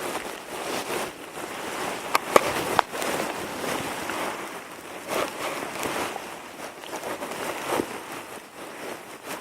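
Dry sticks and branches being handled and stacked into a teepee fire lay, with irregular rustling and three sharp clicks of wood about two to three seconds in.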